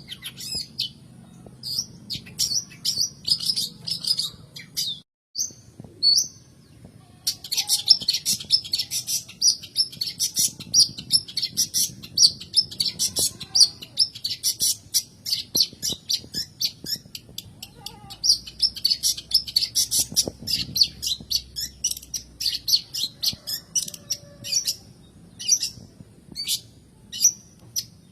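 Long-tailed shrike (cendet) singing a fast chatter of short, high chirps in dense runs. There is a brief break about five seconds in, and the notes come more sparsely near the end.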